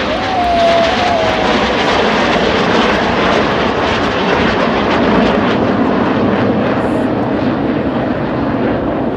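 BAE Hawk T1 jets of the Red Arrows flying their display, a loud, steady rush of jet engine noise.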